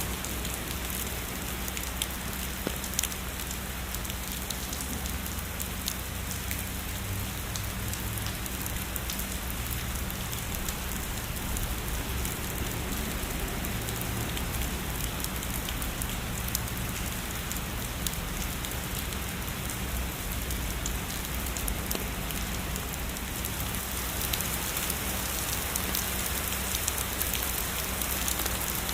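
Heavy rain falling steadily, a dense even hiss full of small ticks from individual drops, with a steady low rumble underneath.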